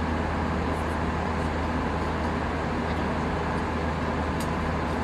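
Steady cabin noise inside an Airbus A319 in flight: an even rush of airflow and engine drone over a constant low hum, with a few faint ticks.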